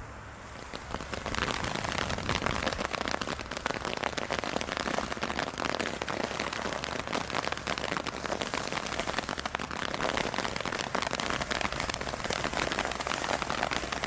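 Firework from a Brothers Pyrotechnics Bonfire Party selection box giving off a dense, fast crackle that comes up about a second in and holds steady, with no separate bangs.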